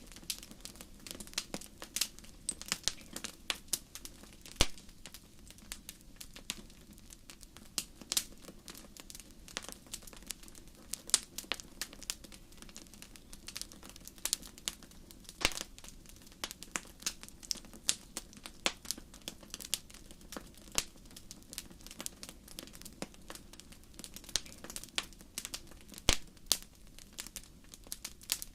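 Fire crackling: a steady run of irregular sharp pops and snaps over a low, even rumble.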